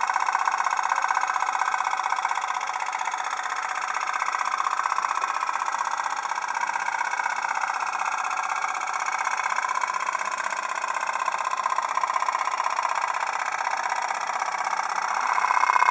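Tin toy pop-pop boat's flame-heated steam engine running, a fast, steady popping that dips slightly in loudness a few seconds in and swells again near the end.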